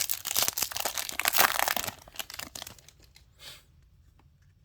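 Trading-card pack wrapper being torn open and crinkled: loud crackling for about two seconds, then a few lighter crinkles and a brief rustle about three and a half seconds in.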